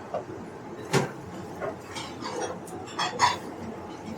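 Tableware clinking on a restaurant table: a few sharp clinks of dishes and chopsticks or cutlery, one about a second in and two close together around three seconds, over a low background noise.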